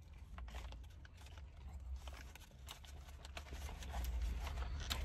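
Quiet eating sounds: a burger being bitten and chewed, with soft crinkles and rustles of its paper wrapper, as faint scattered clicks over a low steady hum.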